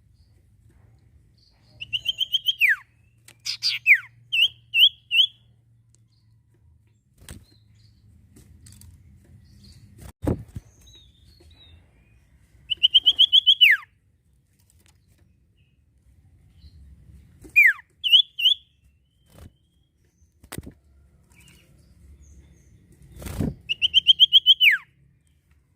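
A common iora (sirtu, or cipoh) singing. Three times it gives a quick run of repeated notes and ends in a long whistle that falls in pitch, with a few short notes in between. Several sharp knocks come between the phrases.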